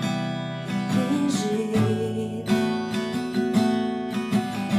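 Acoustic guitar strumming chords as the accompaniment to a worship song, with a sung voice holding a note about halfway through.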